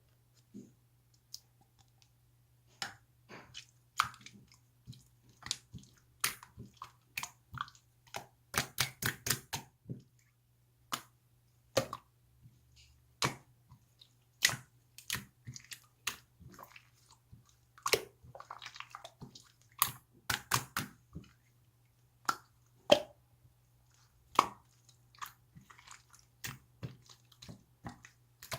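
Close-up irregular clicks and taps, some in quick runs of several a second, with soft crackling between them, over a faint steady low hum.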